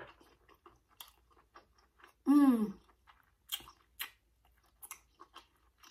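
Close mouth sounds of eating seafood boil: wet chewing with scattered lip smacks and clicks, and one hummed "mmm" of enjoyment a little after two seconds in.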